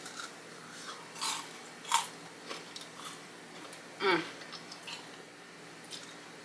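Close-miked chewing of a Flamin' Hot Cheeto–crusted fried chicken wing, with scattered crisp crunches of the coating between quieter mouth sounds.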